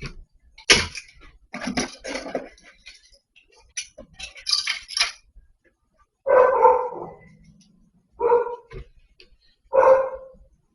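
A few seconds of clattering and knocking, then a dog barks three times, about one and a half seconds apart.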